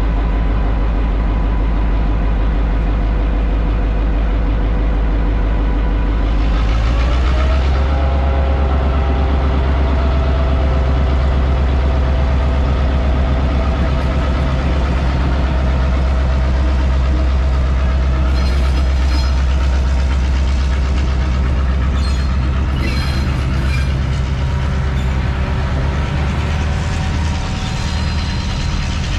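Vintage excursion train running, with a steady low engine drone; the engine note rises about seven seconds in. Faint clicks and squeals from the wheels come in over the last ten seconds or so.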